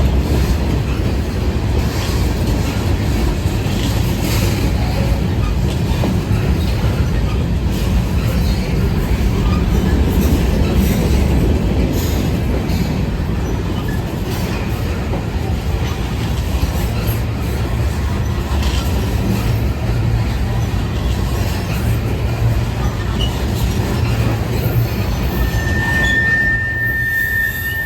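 A train rolling past close by: a steady low rumble of cars on the rails with scattered clicks of wheels over rail joints. Near the end a steady high-pitched wheel squeal sets in.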